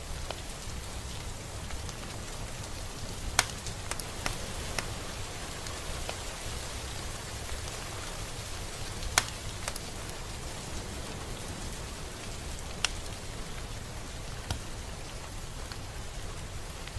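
Steady rain falling with a constant hiss and a low rumble, with now and then a sharper, louder drop striking close by, about seven scattered through the stretch.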